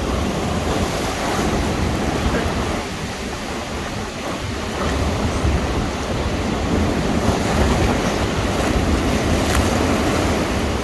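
Heavy sea surf, a big wave crashing and surging in, with wind on the microphone; the rush eases a little a few seconds in, then builds again.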